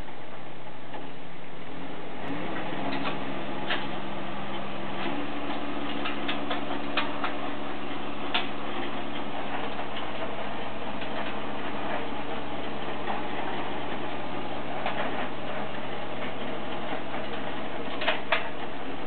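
Kubota B2320 compact tractor's three-cylinder diesel running steadily while driving a rear rotary tiller. Its note firms up about two seconds in and rises a step a few seconds later. Scattered clicks and knocks sound over it.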